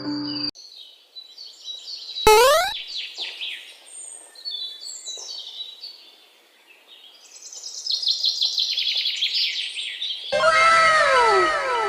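Birds singing, quick high notes at first, then from about ten seconds in a run of overlapping, repeated falling whistled calls. A music phrase cuts off about half a second in, and a brief rising whistle-like glide sounds at about two seconds.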